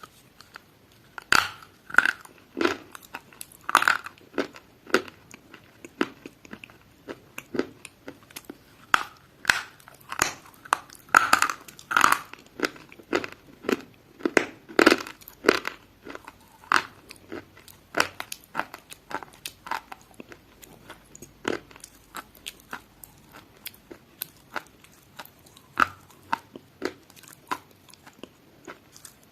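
Crunchy food being bitten and chewed: an irregular run of sharp, crackling crunches, dense through the first half and thinning out in the second half.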